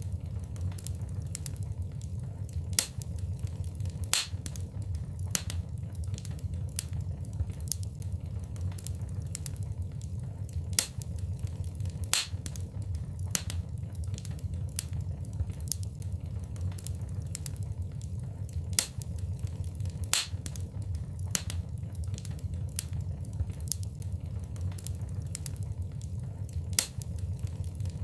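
Wood fire burning in a fireplace: irregular sharp crackles and pops over a steady low rumble of the flames, with a louder snap every few seconds.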